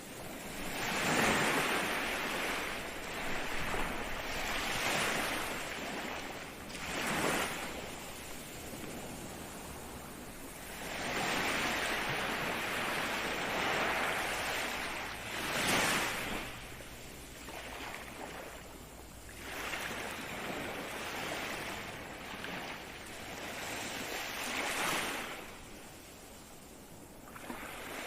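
Ocean waves breaking and washing up the shore in a series of rising and falling swells, several seconds apart, with no break between them.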